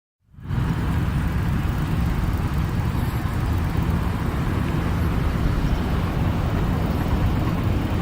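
Steady low rumbling background noise with no distinct events, starting just after a brief dropout at the very start.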